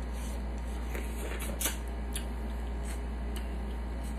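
Close mouth sounds of eating snow crab meat: a handful of short wet clicks and lip smacks while chewing, the loudest a little under two seconds in, with fingers sucked clean near the end. A steady low hum runs underneath.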